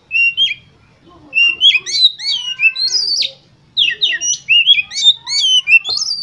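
Oriental magpie-robin (kacer) singing: rapid, varied phrases of whistles, gliding notes and chirps. A short phrase comes first, then two long phrases, with a brief pause between them.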